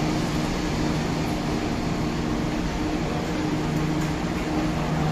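Steady hum of an E26 series sleeper train standing at the platform, with a low drone of a few held tones under an even wash of noise.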